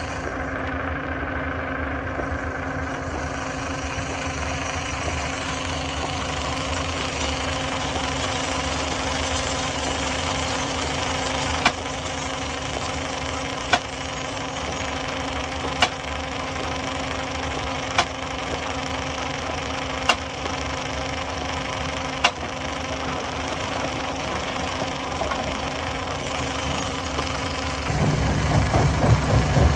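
Stone-crusher machinery running with a steady drone, broken by six sharp knocks about two seconds apart. Near the end it turns louder and rougher, with a heavy low rumble.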